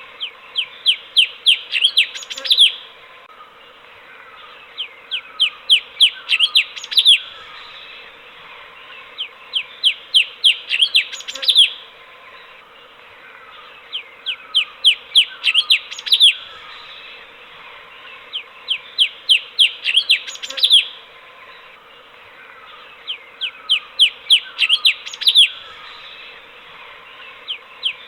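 Cucak cungkok bulbul singing: a quick run of about eight to ten sharp, down-slurred notes lasting about two seconds, repeated in the same form about every four and a half seconds, over a steady background hiss.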